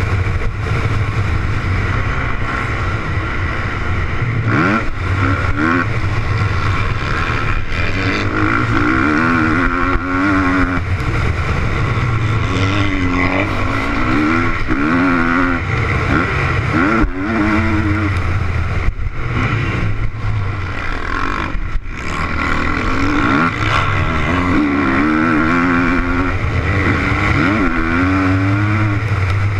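Motocross bike's engine running hard on a dirt track, revving up and dropping back again and again as the throttle is opened and shut.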